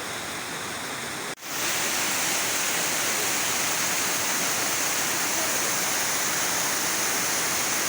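Waterfall's heavy rushing water, a steady even noise; about a second and a half in it drops out for an instant and comes back louder and brighter.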